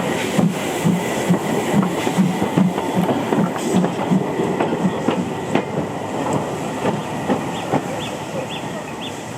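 Steam train hauled by the Bulleid Light Pacific 34092 City of Wells passing by: a regular beat of about two a second for the first few seconds, then a rumble that slowly fades as the train moves away.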